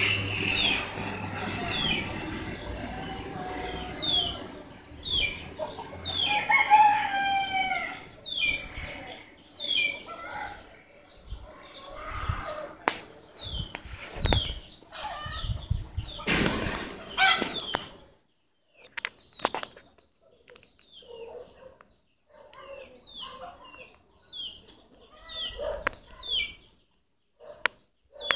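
Birds calling over and over in short falling chirps, getting much quieter about two-thirds of the way through. A small plane's engine drone fades out in the first couple of seconds.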